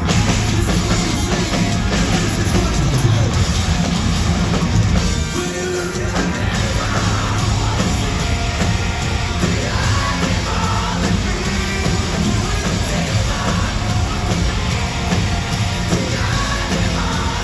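Live heavy rock band playing loudly, with distorted guitars, drum kit and sung or shouted vocals, recorded from the concert hall floor. The band drops out briefly about five seconds in before coming back in full.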